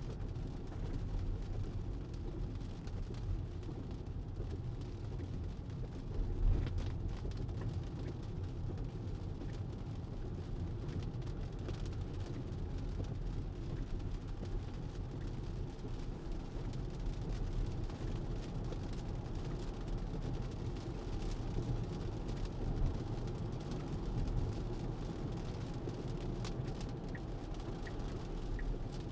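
Steady road and tyre noise of a Tesla driving on wet pavement, heard inside the cabin as a low rumble with faint scattered ticks. There is a brief bump about six seconds in.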